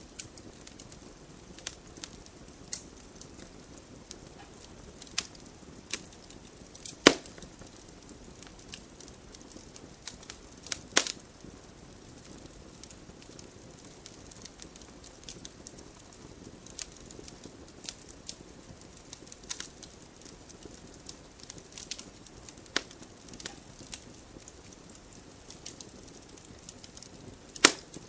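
Wood fire burning in a fireplace: a low steady hiss with irregular crackles and sharp pops, a few of them much louder, about 7 and 11 seconds in and near the end.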